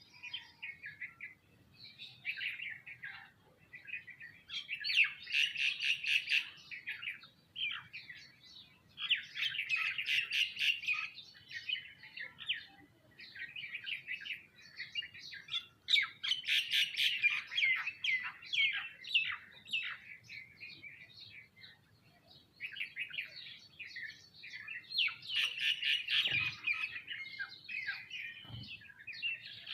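A flock of small birds, sparrows and mynas among them, chirping in dense overlapping bursts that swell and fade every few seconds.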